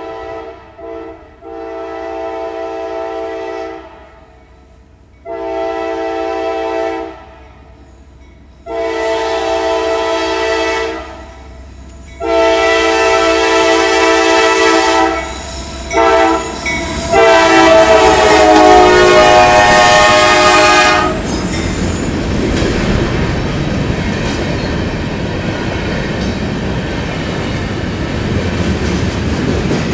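Norfolk Southern freight locomotive's air horn sounding a series of loud blasts of several tones at once, mostly long with a couple of short ones, as it approaches a grade crossing. The last long blast drops in pitch as the locomotive passes, and the train's cars then rumble and clack by on the rails.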